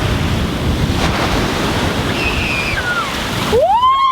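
Ocean surf breaking on the beach, with wind buffeting the microphone. Near the end the surf noise cuts away suddenly and a single long high call rises and then falls in pitch.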